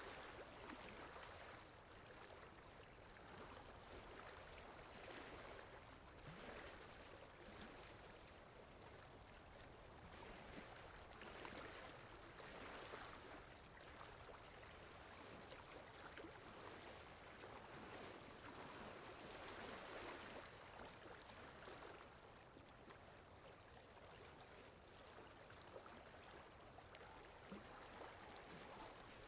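Faint, steady rainfall: an even hiss of rain that swells and eases gently every few seconds.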